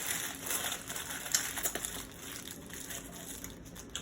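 Close-miked eating: chewing with soft crunches and small mouth clicks, one sharper crunch about a second and a half in.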